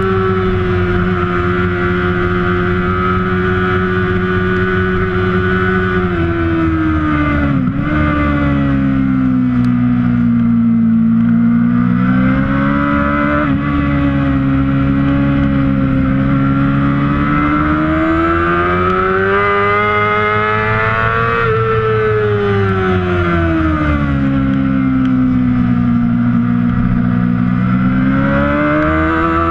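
Kawasaki ZX-6R 600cc inline-four race engine running hard and steadily loud, with wind hiss. Its pitch holds high, then sinks over a few seconds with a brief sharp dip about eight seconds in. It climbs again to a peak about two-thirds of the way through, then falls and starts rising again near the end.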